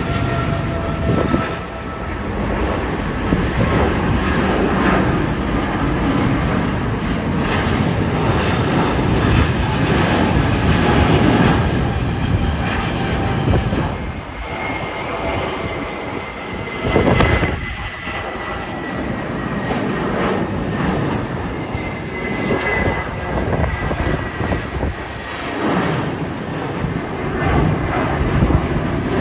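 Loud, steady engine roar with a faint high whine that drifts slowly lower.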